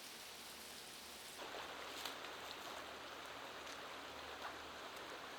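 Flowing creek water, a faint steady rush with a few small ticks, growing fuller about a second and a half in.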